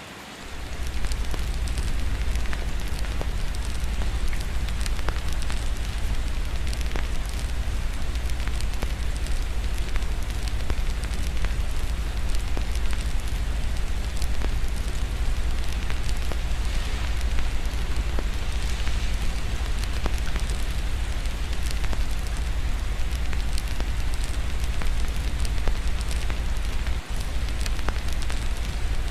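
Fireplace crackling with scattered sharp pops over steady rain, with a constant low rumble underneath. The whole mix dips briefly right at the start, then runs on evenly.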